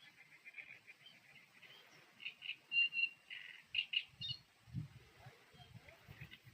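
Birds chirping: a run of short, high calls packed together in the middle, with a few low thumps in the second half.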